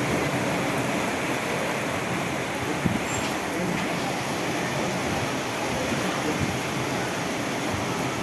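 Heavy rain pouring down steadily in a downpour, a continuous rushing hiss with a small tick about three seconds in.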